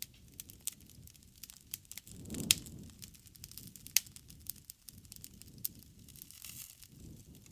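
Wood fire crackling, with irregular snaps and pops over a low rumble. Two pops stand out, about two and a half and four seconds in, and a low swell comes around the two-second mark.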